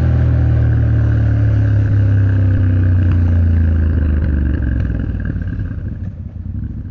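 Yamaha Ténéré 700's parallel-twin engine running steadily while riding, with road noise; the sound dies away over the last couple of seconds.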